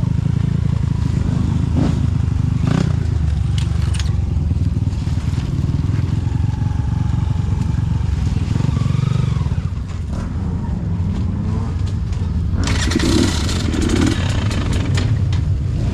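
KTM EXC 300 two-stroke dirt bike engine running, with a few sharp knocks in the first few seconds. About three-quarters of the way through, a loud hiss joins it and lasts to the end.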